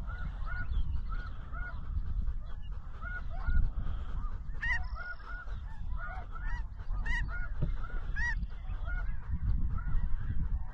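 Snow geese calling: a steady stream of short, high, yelping honks from many birds, overlapping throughout, over a low rumble.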